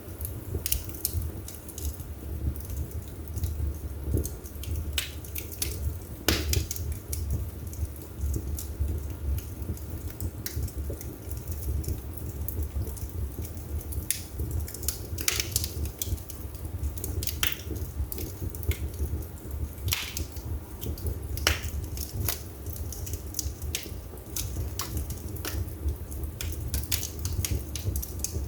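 Wood fire burning in a fireplace: steady low rumble of the flames with irregular crackles and sharp pops from the burning logs.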